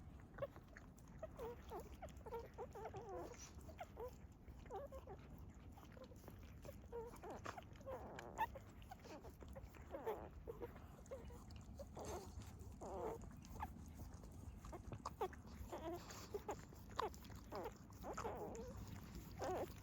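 Dog whimpering: many short, high whines and squeaks, one after another throughout, over a low steady rumble.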